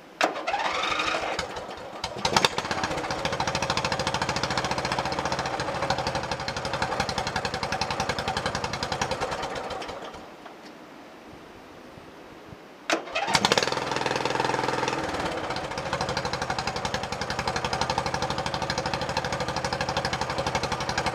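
Craftsman riding lawn tractor engine, exhausting through a homemade stainless muffler built from a fire extinguisher, starts and runs steadily. About ten seconds in it winds down. It starts again about three seconds later and keeps running, less loud and less obnoxious than the old muffler.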